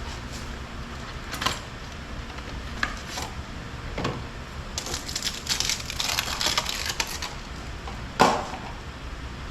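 Scattered clicks, scrapes and clatter of hard objects being handled, with a stretch of quick scratchy clicking in the middle and one louder knock near the end, over a steady low hum.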